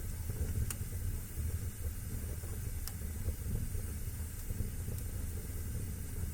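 Wood fire burning in a fireplace: a steady low rumble and hiss of the flames, with three sharp crackling pops about two seconds apart.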